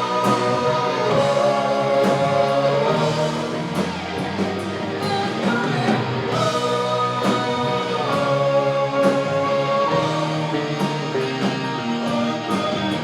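Live rock band playing an instrumental passage of a power ballad: electric guitar over drums and bass, with no words sung.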